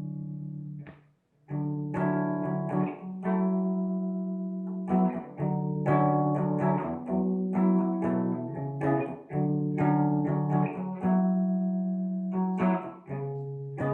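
Amplified guitar playing an instrumental passage: chords plucked and left ringing, changing about once a second, with a brief gap about a second in.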